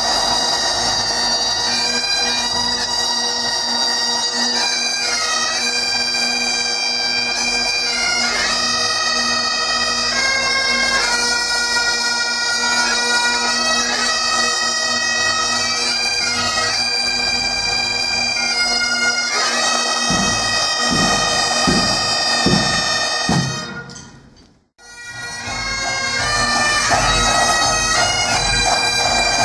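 Bagpipes playing a tune over a steady drone, with a few low drum-like thumps about two-thirds of the way in. The sound dies away briefly about three-quarters through, then comes back.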